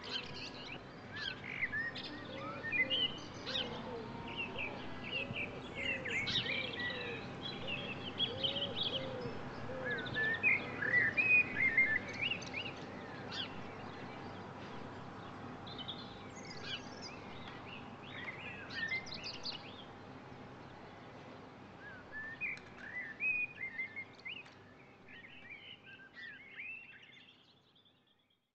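Birds singing and chirping, with many short trills and chirps over a steady outdoor background hiss and a run of lower repeated notes a few seconds in; the sound fades out near the end.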